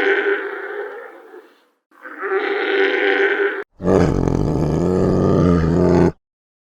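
Two drawn-out, mid-pitched animal calls, then, after a sudden cut, a deeper and louder animal roar that stops abruptly.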